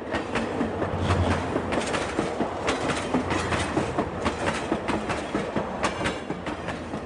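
Train running over the rails with a rhythmic clickety-clack of wheels on rail joints, many clicks a second.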